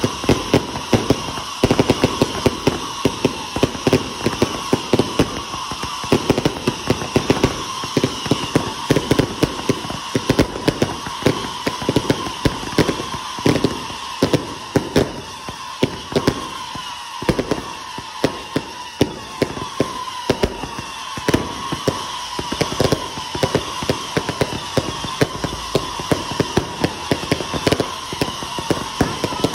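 Firecrackers and fireworks going off in a dense, continuous crackle of rapid bangs, with high whistling tones that slide down in pitch.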